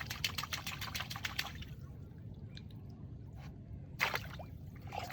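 Water dripping and splashing: a quick run of small drops for about a second and a half, then a few scattered drips and a louder splash about four seconds in.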